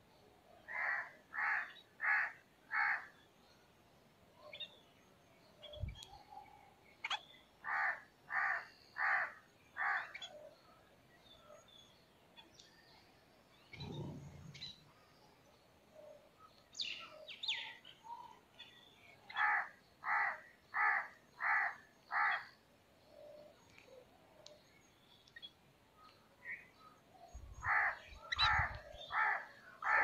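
A bird calling in four bouts of four or five loud, evenly spaced notes, a bout every several seconds, with fainter chirps of other birds between.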